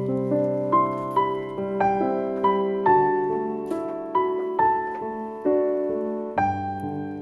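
Background piano music: a gentle melody of single struck notes, a few per second, over sustained chords.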